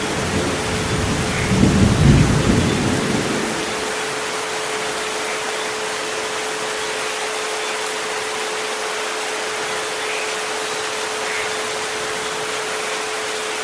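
Steady rain with a low rumble of thunder in the first few seconds, loudest about two seconds in, over a continuous pure tone at about 432 Hz.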